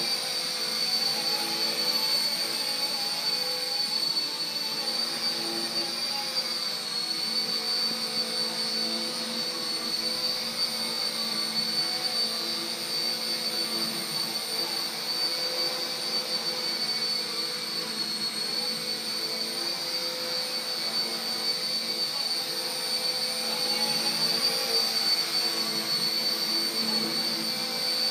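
RC Era C032 UH-1 Huey, a battery-powered RC helicopter, running its motors and rotors in flight: a steady high whine with a lower hum, the pitch wavering slightly.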